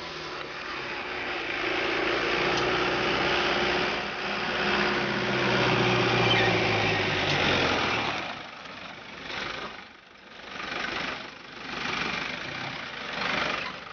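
A Jeep's engine running as it drives up the road toward the camera, a steady hum that grows louder over the first few seconds. After about eight seconds the engine hum drops away and the sound rises and falls in several waves, like vehicles passing.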